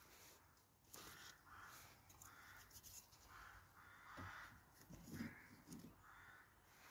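Faint, harsh bird calls repeating about every half second, with a few soft knocks from a hand working at a small titanium wood stove's door about four to six seconds in.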